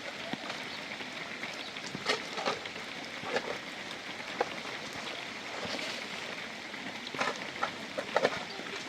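Steady rain falling, with heavier drops striking close by now and then as sharp ticks.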